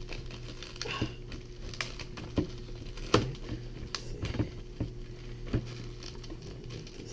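Hands struggling to open a small humidifier's packaging: irregular clicks, taps and scrapes, over a steady low hum.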